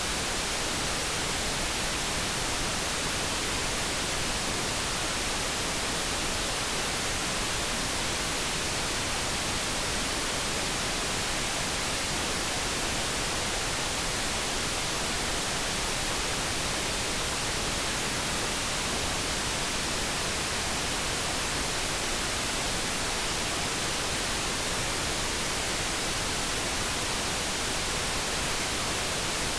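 Light brown noise: a steady, even hiss of generated background noise that does not change, with no tones in it.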